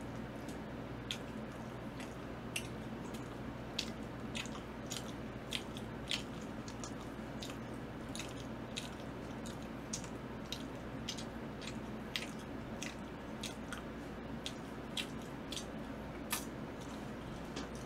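A person chewing seasoned fried chicken (yangnyeom chicken) close to the microphone, with short sharp mouth clicks and smacks coming irregularly, a bit more than once a second, over a steady low hum.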